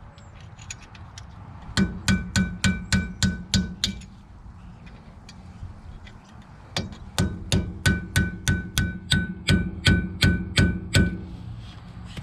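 Hammer driving a chisel against a hub nut to tighten it: two runs of quick metal-on-metal blows, about four a second, each with a short ringing tone. The first run is shorter; the second starts about seven seconds in and is longer.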